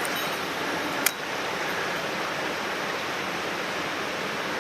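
Mountain stream water rushing steadily, with a single short click about a second in.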